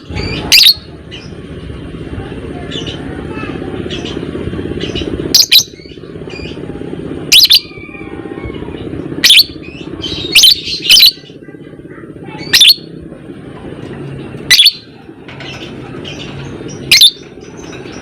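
Lovebird giving short, loud, shrill chirps, about nine of them one to two seconds apart, over a steady low background noise.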